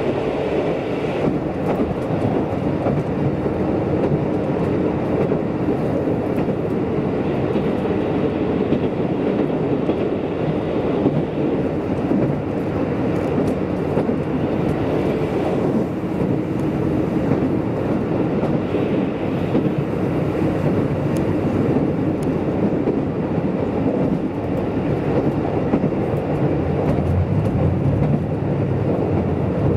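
Kiha 185 series diesel express railcar running at speed, heard from inside the car: a steady mix of diesel engine noise and wheels running on the rails.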